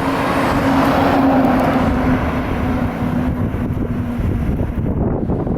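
Fire engine driving past: engine and tyre noise swelling about a second in, then fading, with a steady low hum that drops slightly in pitch as it goes by. Wind on the microphone.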